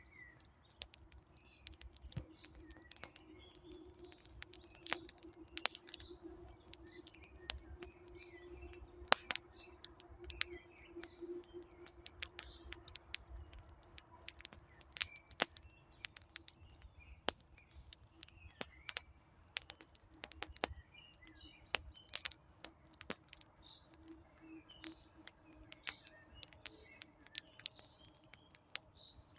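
Wood campfire crackling, with sharp pops scattered irregularly throughout, over faint bird chirps.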